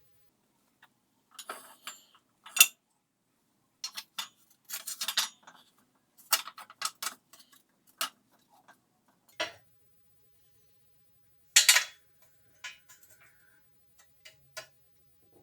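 Tools and metal parts being handled during washing-machine repair work: irregular sharp clicks, clinks and knocks, with two louder clanks, one a few seconds in and one near the end.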